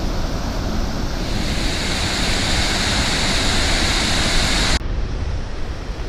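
Waterfall in heavy flood after heavy rain, a loud steady rush of water. About five seconds in the sound cuts abruptly to a duller, slightly quieter rush.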